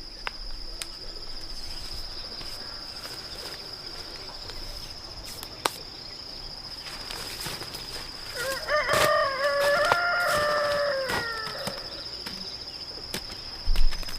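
A rooster crowing once, a call of about three seconds in the middle, over a steady high drone of insects.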